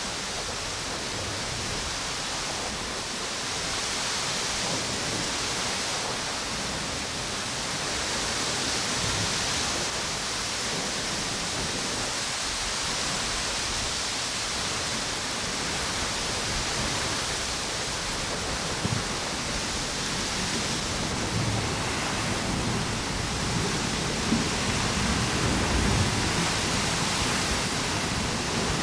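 Ocean waves washing onto a beach with wind blowing through palm trees: a steady rush that swells and eases every few seconds. Gusts add a low rumble in the second half.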